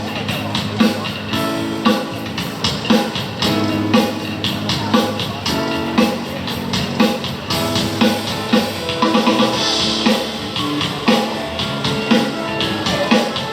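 Live band music over a loud PA during a sound check: electric guitar and drum kit playing a song with a steady beat, about two drum hits a second.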